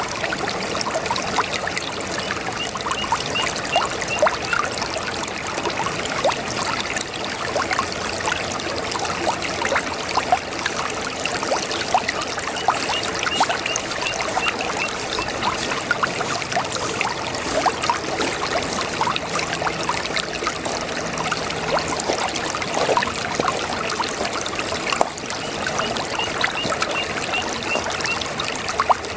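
Small brook babbling steadily, with water trickling and bubbling over stones in a continuous run of small plinks and gurgles. A faint high trill of short notes recurs a few times in the background.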